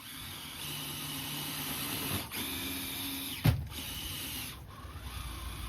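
RC rock crawler's electric motor and geared drivetrain whining steadily as the truck drives, breaking off briefly about two seconds in and picking up again. A single sharp knock comes about three and a half seconds in.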